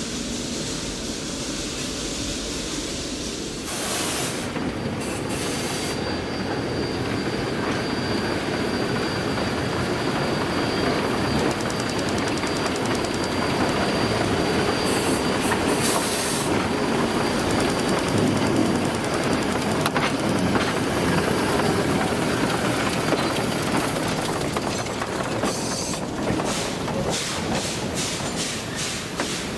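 A train rolling past, its wheels and cars giving a steady rumble that builds to a peak about halfway through and then eases. A faint high wheel squeal runs through the first half, and near the end the wheels click evenly over rail joints, about three a second.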